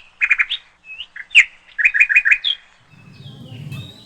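A bird chirping: a lively run of short, sharp, high chirps, some in quick groups of three or four. A low rumble comes in near the end.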